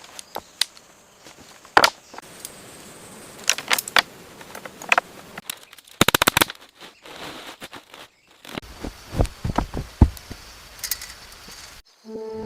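Irregular sharp knocks, snaps and clicks of wood and branches being worked, with a quick rattling run of clicks about six seconds in.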